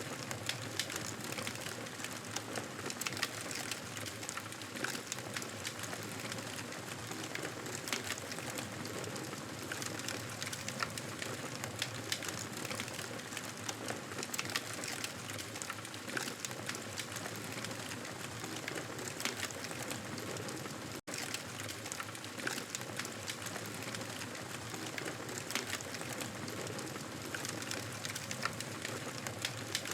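Wood fire crackling in a fireplace: a steady hiss dotted with many small, irregular pops and snaps. The sound cuts out for an instant about two-thirds of the way through.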